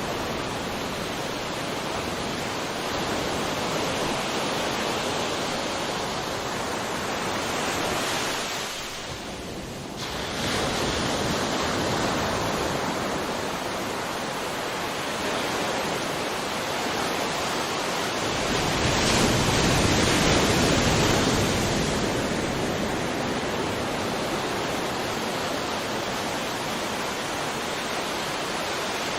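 Sea waves washing onto a shore: a continuous rush of surf that eases briefly about a third of the way in, then swells into a louder wave about two-thirds through.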